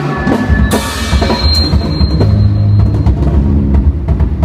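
Live worship band playing with a drum kit: steady drum strikes over low sustained notes, with a cymbal crash a little under a second in.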